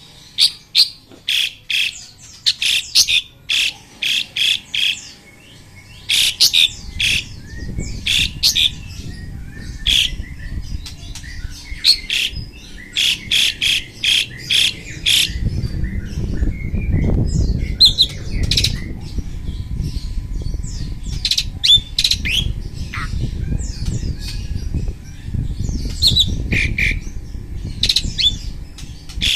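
Caged Asian pied starling and white-rumped shama calling against each other: loud, harsh notes repeated in quick runs of about three to four a second. A low rumble sets in underneath after a few seconds and is heaviest through the middle.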